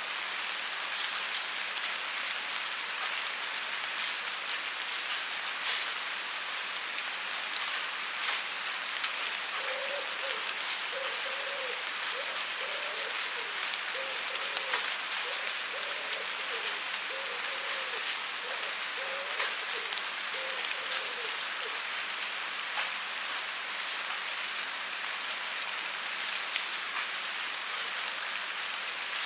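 Steady rain falling, a dense even hiss with individual drops ticking sharply here and there.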